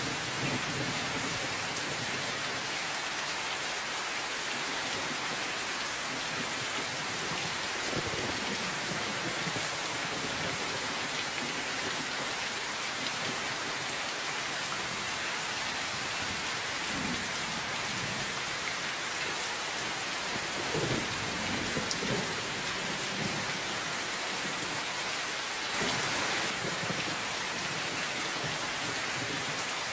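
Steady, heavy rain falling, with a few low rumbles of thunder: about eight seconds in, again around seventeen seconds, and twice around twenty-one to twenty-two seconds.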